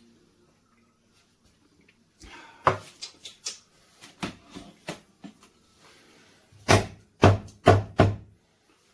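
A run of sharp clicks and knocks from the handling of the espresso machine's parts. It ends in four loud knocks in quick succession, about half a second apart.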